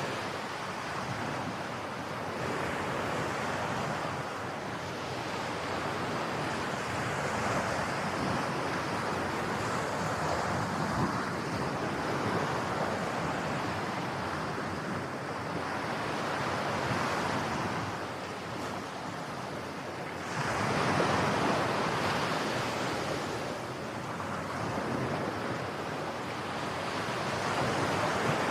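Waves breaking on a shore: a steady rush of surf that swells and falls every few seconds, with the loudest wave about 20 seconds in.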